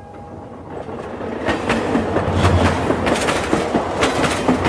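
Train running along the track, with the clickety-clack of its wheels over rail joints; the rumble swells over the first couple of seconds.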